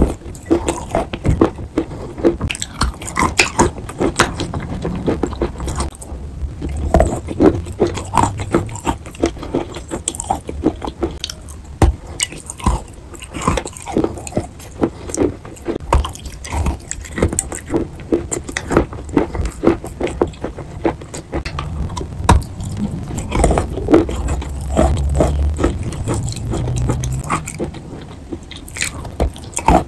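Close-miked biting and chewing of a water-soaked block of chalk: many irregular crunches and crackles mixed with wet, pasty mouth sounds.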